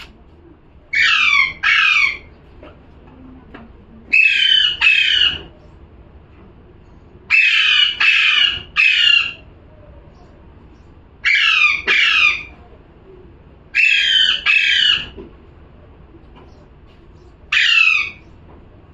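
Parrot squawking: six bursts of two or three harsh calls, a few seconds apart, each call falling in pitch.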